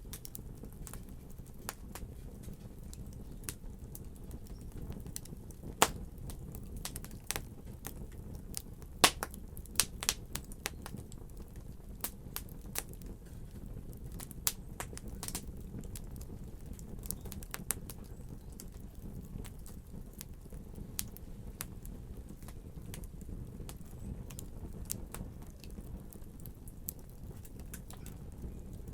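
Fire burning in a fireplace: a steady low rumble of flames with irregular crackles and sharp pops. The loudest pops come about six and nine seconds in, followed by a quick run of crackles.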